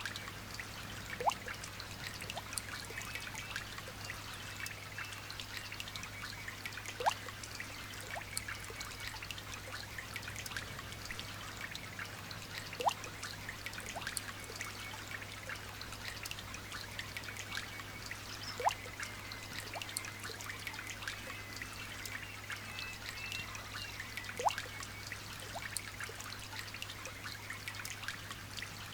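Light rain pattering in a steady fine patter of drops, with a louder drip plopping with a short rising pitch at even intervals of about six seconds. A low steady hum runs beneath.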